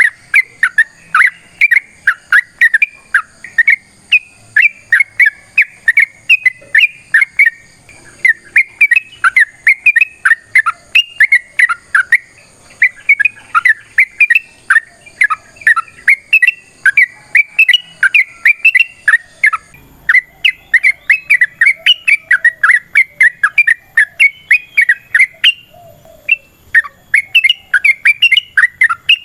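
Yellow-vented bulbul (trucukan) singing a long, fast run of short repeated chirping notes, about four or five a second, with a few brief breaks.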